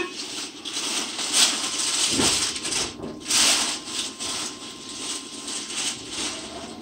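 Interior running noise of a Nagoya Municipal Subway N3000-series train as it pulls away from a station, a steady rumble and rattle of the car with hissing stretches about 1.4 s and 3 s in and a single thump a little after 2 s.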